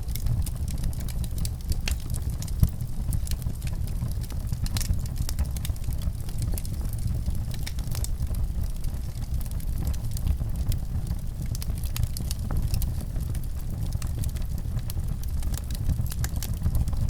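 Fire burning in a fireplace: a steady low rumble with frequent sharp crackles and pops scattered throughout.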